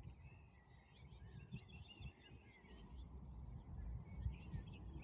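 Faint songbirds singing, a steady stream of quick, varied notes, over a low rumble.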